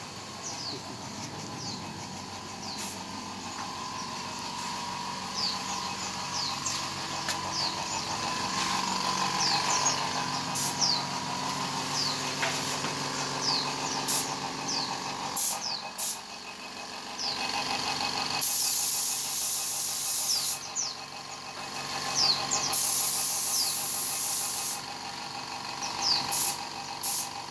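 Paint spray gun laying on clear coat in two hissing passes of about two seconds each, in the second half, over a steady machine hum.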